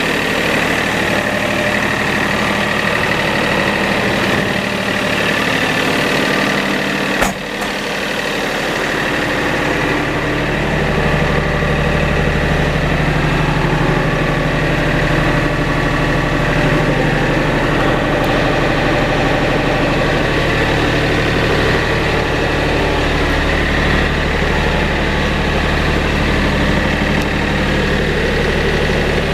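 Kioti tractor-loader's diesel engine running steadily at idle. A sharp click comes about seven seconds in, after which the engine's low note grows stronger and stays that way.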